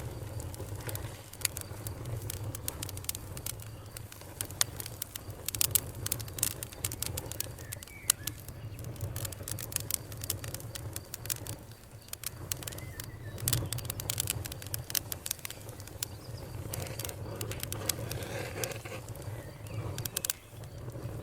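Wood fire crackling: a steady low rumble of the flames with dense, irregular snaps and pops, a few louder pops standing out.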